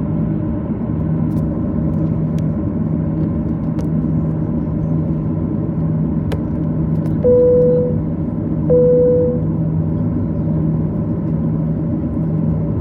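Steady cabin rumble and hum of a Boeing 737-800 with its engines running at low power on the ground before takeoff. Around the middle, two identical chime tones sound about a second and a half apart.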